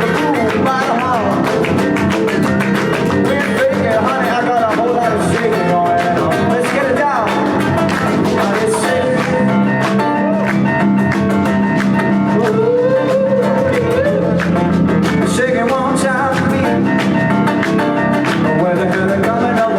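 A live band playing loud, continuous music with a steady beat, guitar prominent, and a melodic line bending up and down over a sustained bass.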